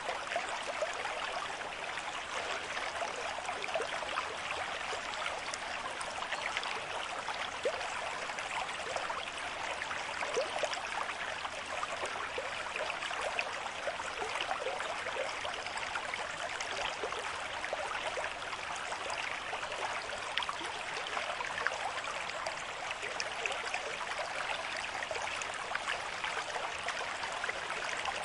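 River stream flowing at a moderate rate: a steady rush of water with constant small bubbling and splashing.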